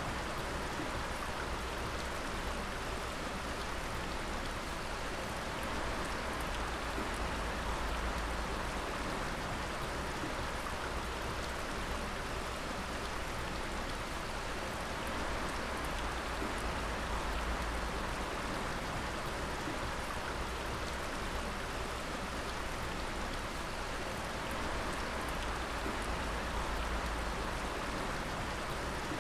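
Water dripping and splashing continuously, many drops falling at once so that it patters steadily like rain.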